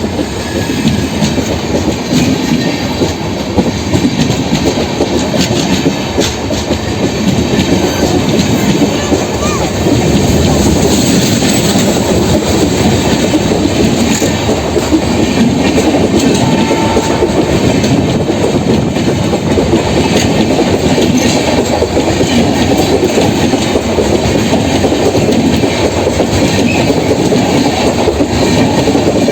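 LHB passenger coaches of an Indian Railways express rolling along the track: a loud, steady rumble dotted with frequent clicks of the wheels over the rail joints.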